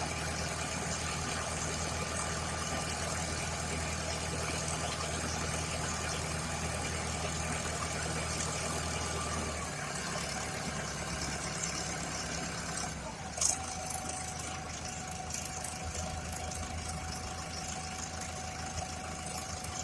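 Engine of a small 2-cubic-metre concrete mixer truck running steadily. Its note changes about ten seconds in and again about three seconds later, where there is a sharp click and a steady higher whine starts.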